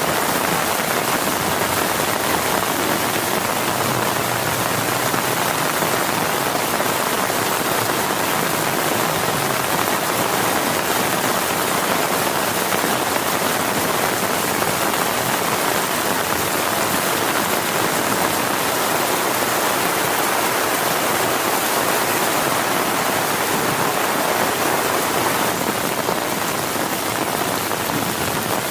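Heavy rain falling steadily and unbroken on a tent.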